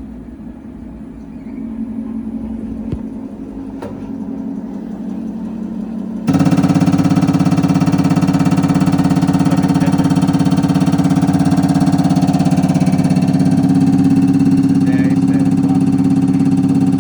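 Common rail injector test bench running an automatic test on a Denso injector: a steady mechanical hum that jumps suddenly much louder about six seconds in and then holds steady, as the bench's high-pressure pump comes up to test pressure.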